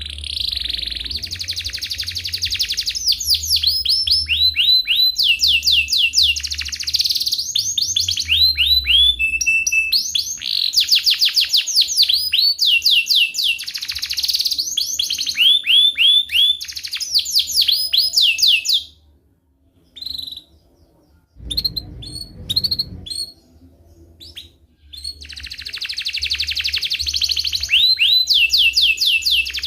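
Domestic canary singing long rolling trills of rapid, repeated falling chirps, with a break of a few seconds about two-thirds of the way through before the song picks up again.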